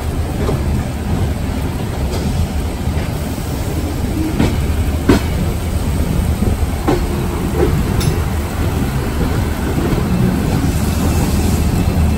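Passenger train running, heard from a coach's open door: a steady low rumble of the wheels on the rails, with a few scattered sharp clicks as they pass over rail joints.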